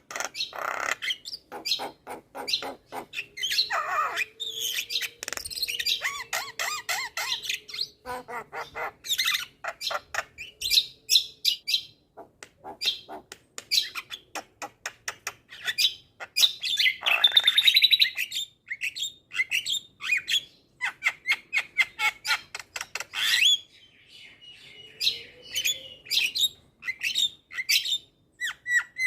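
Javan myna (jalak kebo) singing a long, varied song: rapid clicking rattles and harsh squawks, with a loud buzzy squawk about seventeen seconds in and a steady whistle later on.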